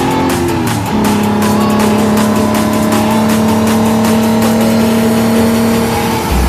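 V6-converted Toyota MR2 Spyder engine pulling hard on track. Its note drops sharply about a second in, then holds a steady note that sags slowly until it changes again near the end.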